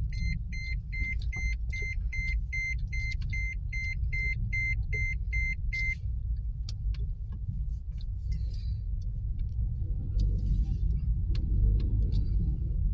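A car's warning chime beeping rapidly and evenly, about four beeps a second, stopping suddenly about six seconds in. Under it is the low, steady rumble of the car heard from inside the cabin.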